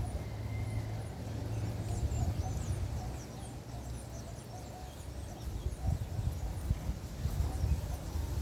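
Anis (anu birds) calling in short, high chirps repeated every fraction of a second, over a steady low rumble.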